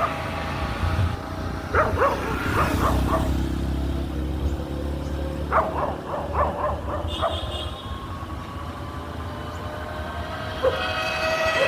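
A dog barking in short runs of barks, over a low rumble.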